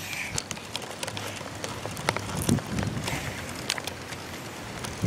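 Scattered clicks, knocks and rustling from a bicycle, with a camera taped to it, being handled as the rider gets back on, over a soft hiss.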